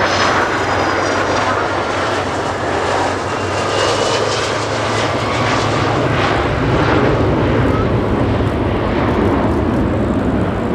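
Boeing 757's twin turbofan jet engines running loud and steady, with a high whine riding over the roar near the start.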